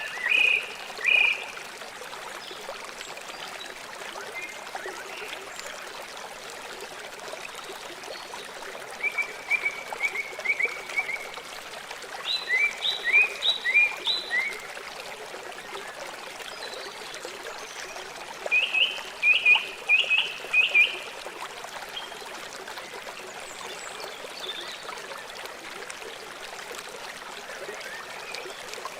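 A river flowing steadily, a constant rush of water. Over it, four short bouts of rapid chirping calls, each a quick run of several notes, come near the start, about a third of the way in, just after that, and about two thirds of the way in.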